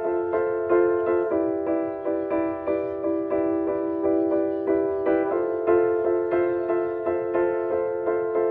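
Piano playing repeated chords in an even pulse, about three strikes a second, moving to a new chord twice: an instrumental passage of a pop ballad with no singing.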